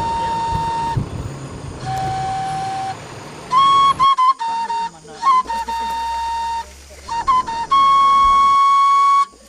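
A flute playing a slow melody of long held notes, with quick ornamental flicks of pitch between them; the last and longest note sits a little higher.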